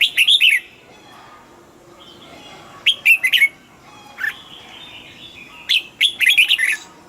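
Red-whiskered bulbul singing: three short, loud phrases of quick notes sliding up and down, about three seconds apart, with fainter birds calling between them.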